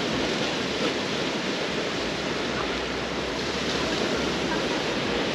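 Sea waves washing onto a beach, a steady even wash of surf noise, with faint voices of people in the background.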